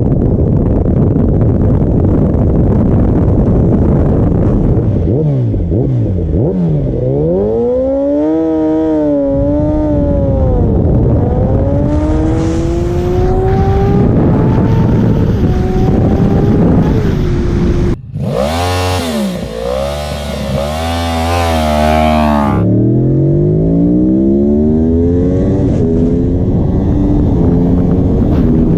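Sport motorcycle engine accelerating hard through the gears: its pitch climbs, drops back at each shift and climbs again, over heavy rushing noise. It cuts abruptly about 18 seconds in to another revving, accelerating run.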